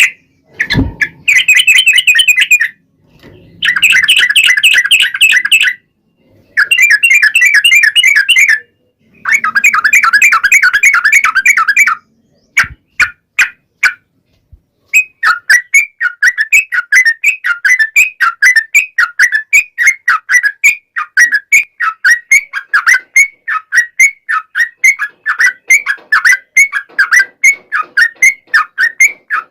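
Yellow-vented bulbul (trucukan) singing: four long bursts of rapid rolling chatter, then after a short break a steady run of repeated short notes, a few per second.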